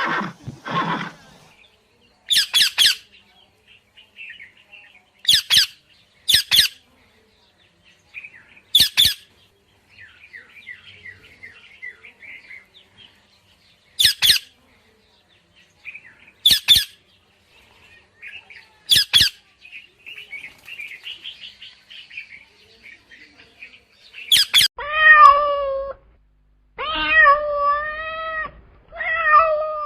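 Short, sharp animal calls every few seconds with faint, high chirping between them, then a cat meowing repeatedly through the last five seconds.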